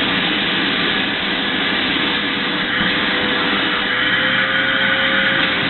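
Vacuum cleaner running steadily, a constant rushing noise with a thin steady whine under it, as it is run over a cat's fur.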